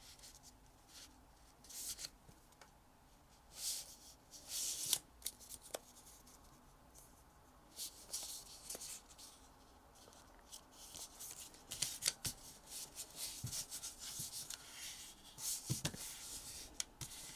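Origami paper being folded in half and creased by hand: intermittent rustling and crinkling in short bursts, with a few light taps.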